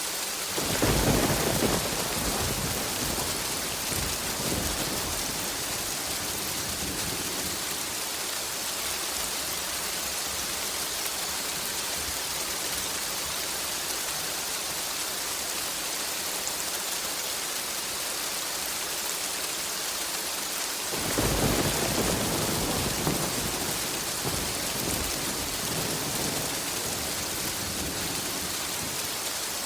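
Steady heavy rainfall with two rolls of thunder: one rumbles in about a second in and fades over a few seconds, and a second rolls in about twenty seconds later and fades slowly.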